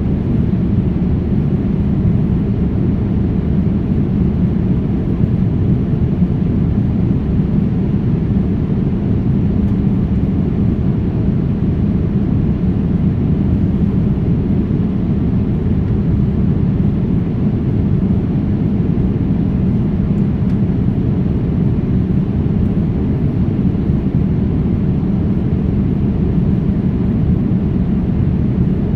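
Steady low rumble of jet airliner cabin noise: engine and airflow noise heard from inside the passenger cabin.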